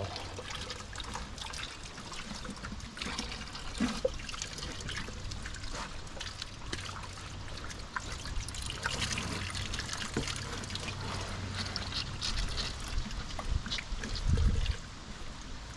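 Water running and splashing from a garden hose as pigs play in the stream, with a low thud about 14 seconds in.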